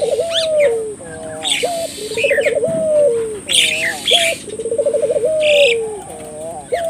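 Ringneck dove (burung puter) cooing over and over in full song, each call a fast rolling trill that runs into a long falling note, about every second and a half. Short higher chirps from other small birds come in between.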